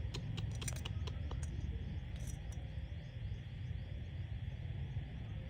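Insects chirping steadily in the background over a low rumble, with a quick run of sharp clicks in the first second and a half.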